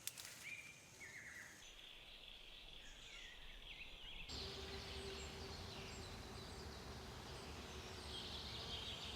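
Faint forest ambience. Short rising bird chirps sound in the first few seconds. After a sudden change about four seconds in, there is a steady high hiss with a faint low hum.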